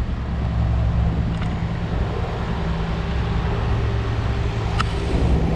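Street traffic: a vehicle engine running steadily nearby, with wind rushing on the microphone, and one sharp click about five seconds in.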